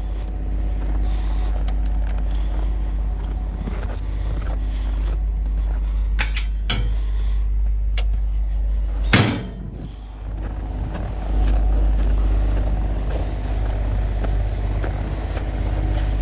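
An engine idling steadily, with a few sharp clicks and one loud clunk about nine seconds in. The running gets a little louder from about eleven seconds.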